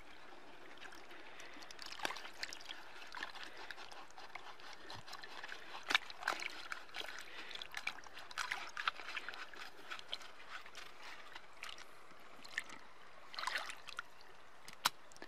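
Shallow creek water trickling steadily, with irregular splashes and sloshing as a muddy foot is rinsed off in it; the splashing comes in short flurries, busiest about six seconds in, around eight to nine seconds, and near the end.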